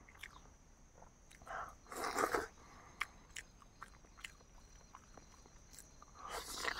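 Close-up eating sounds of boiled eggs with chutney: chewing with small mouth clicks, and louder bursts about two seconds in and near the end.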